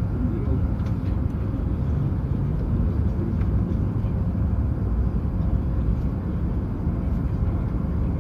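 Hokuriku Shinkansen train running, a steady low rumble of wheels and motors with a faint constant hum and a few light ticks.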